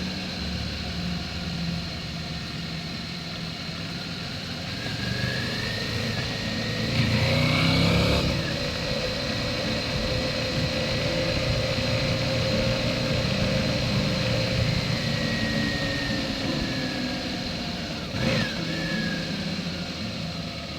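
Motorcycle engine running under way, its pitch drifting slowly up and down, growing louder for a moment about seven seconds in, with a short sharp knock near the end.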